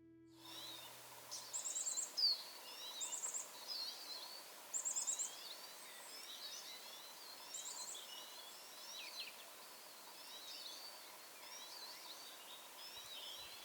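Birdsong: several birds chirping and whistling, with a high, fast trill repeated four times in the first eight seconds.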